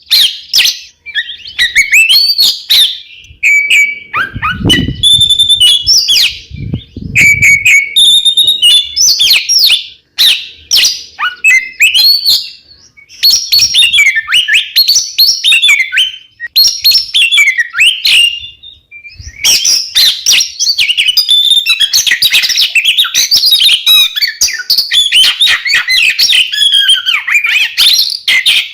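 Oriental magpie-robins (kacer), two birds singing full out: rapid, varied chirps, trills and whistles in long phrases with short pauses. This is a lure song ('pancingan') used to provoke other magpie-robins into singing. A couple of low dull thuds come about five and seven seconds in.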